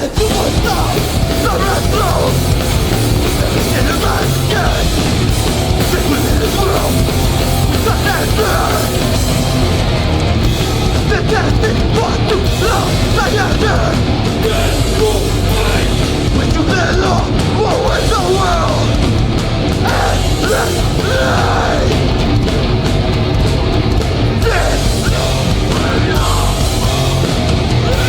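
Hardcore band playing a song live at a steady, loud level.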